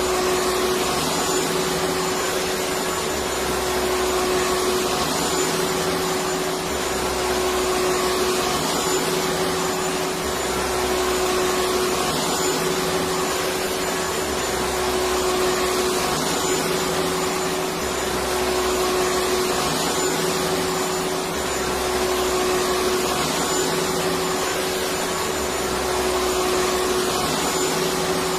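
Electric vacuum cleaner running continuously: steady rushing air noise with a constant motor hum, played as soothing white noise for babies.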